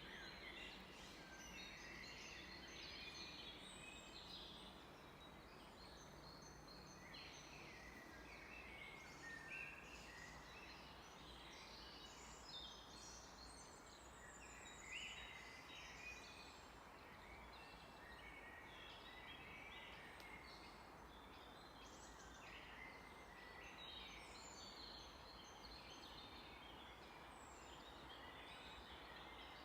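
Faint chorus of several songbirds, with short chirps and trills overlapping throughout, over a low steady hum.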